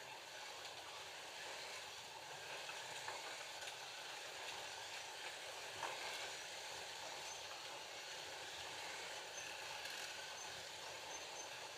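FLY Classic slot cars with 19K motors running round the track: a steady hiss and whir of the small electric motors and guide braids on the rails, with one brief click about six seconds in.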